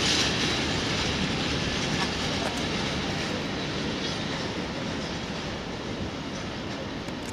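Freight train's covered wagons rolling away on the rails: a steady rush of wheel noise that fades gradually as the end of the train recedes, with a few faint wheel clicks.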